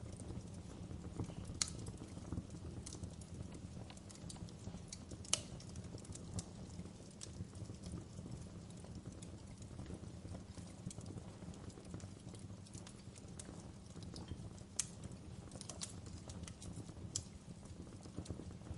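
Wood fire crackling in a fireplace: a steady low rumble of the burning fire with irregular sharp pops and snaps of the logs, a few louder pops standing out.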